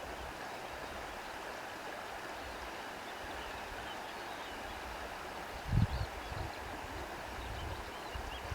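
Steady rushing of wind, with a few faint bird chirps and a brief low buffet of wind a little under six seconds in.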